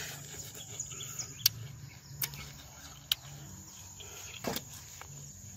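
Someone chewing bilimbi fruit with the mouth closed, with a few short sharp clicks and crunches spread through. Under it is a faint steady chirring of insects.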